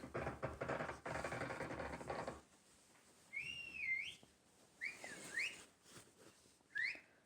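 A scratchy pattering noise for about two seconds, then three short whistled phrases whose pitch swoops up and down, the last one brief.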